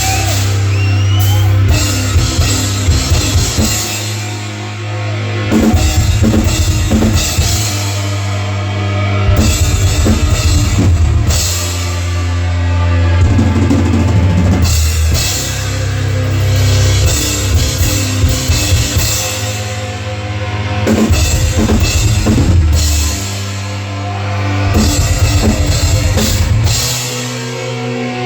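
Heavy metal band playing a song live, with the drum kit and cymbals prominent over the band, in loud passages that swell and ease every few seconds.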